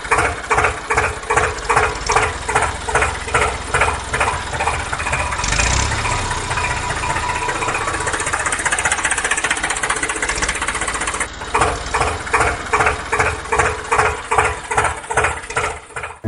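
Small motor of a home-made model tractor running with a rhythmic pulsing, about two to three beats a second. It evens out into a steadier run for several seconds in the middle, then pulses again.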